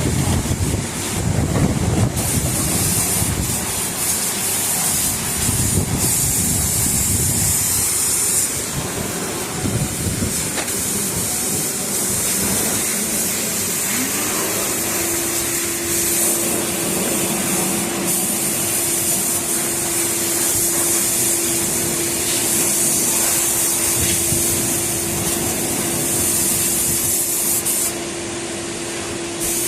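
Pressure-washer spray hissing steadily against a car at a car wash. About halfway through, a motor starts with a short rising whine and then runs on as a steady hum under the spray.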